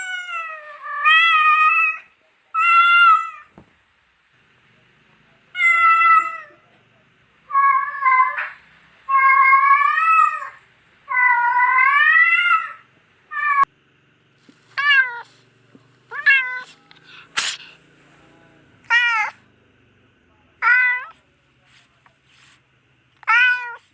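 A domestic cat meowing over and over: long drawn-out meows with a wavering pitch in the first half, then shorter, sharper meows about every one and a half to two seconds.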